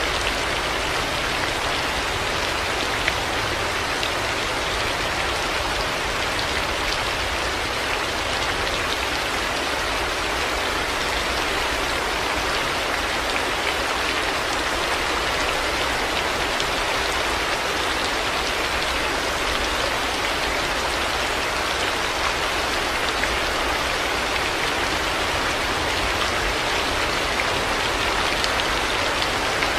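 Heavy rain falling steadily, an even hiss of countless drops hitting surfaces, with fine individual drop ticks through it.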